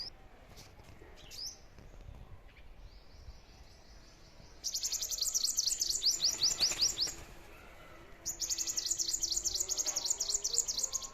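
Small bird calling in two bursts of rapid, high chirps, each note sliding quickly downward, the first burst a few seconds in and the second after a short pause, with a few fainter chirps before them.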